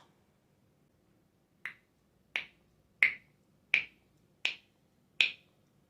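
A steady run of sharp snapping clicks, about one every three quarters of a second, starting faintly near two seconds in and then evenly loud.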